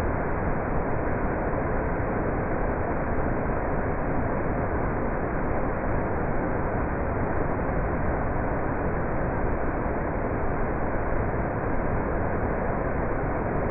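Steady rush of water pouring down a man-made waterfall, an even roar of falling water with no breaks.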